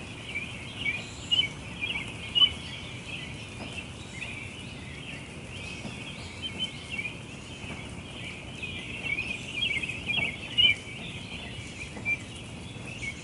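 Many songbirds chirping and singing at once in a dense, continuous chorus of short high chirps, a few louder ones standing out, over steady low background noise.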